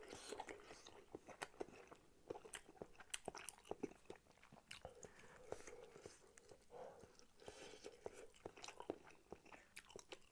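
A person chewing food close to the microphone, quietly, with many short wet clicks and smacks of the mouth at an irregular pace.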